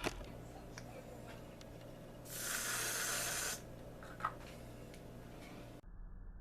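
A short burst of hissing spray, starting suddenly about two seconds in and cutting off a little over a second later, with a few light clicks around it.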